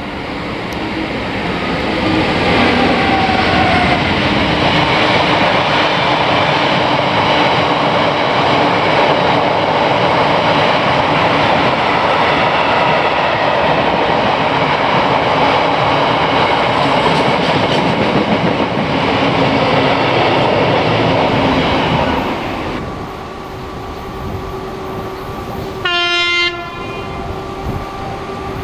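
A train passing close by, loud and steady for about twenty seconds, then stopping abruptly. After that a quieter steady train hum is heard, with one short horn blast near the end.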